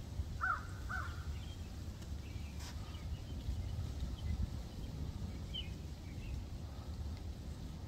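Two short bird calls about half a second apart near the start, then scattered faint high chirps of birds, over a steady low rumble.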